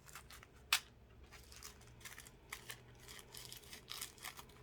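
Small plastic bags of diamond painting drills being handled, with light crinkling and scattered clicks, one sharper click under a second in.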